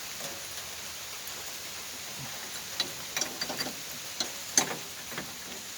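Steady hiss of rain with a scatter of light clicks and taps in the second half, the sharpest about four and a half seconds in: a hose and its fitting being handled and fitted on the backhoe.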